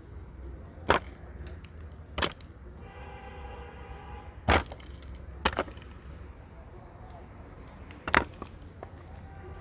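Wood being worked by hand: about five sharp knocks or cracks, irregularly spaced a second or more apart. A fainter pitched tone sounds for about a second and a half, about three seconds in.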